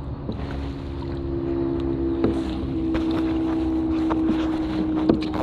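A steady engine hum that holds one pitch for several seconds, over wind rumbling on the microphone, with a few sharp knocks of paddles against a kayak.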